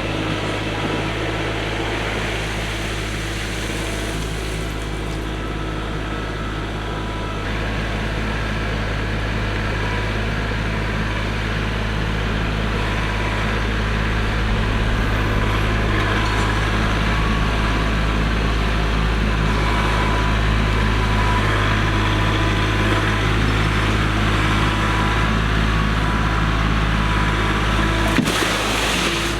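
Kubota tractor's diesel engine running steadily, growing somewhat louder about seven seconds in and again halfway through.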